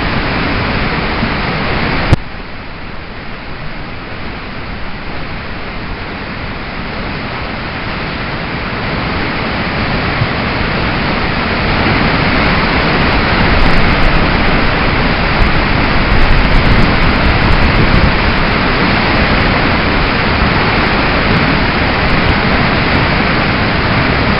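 River water rushing, a steady noise that grows louder over the first ten seconds or so. A single sharp knock comes about two seconds in.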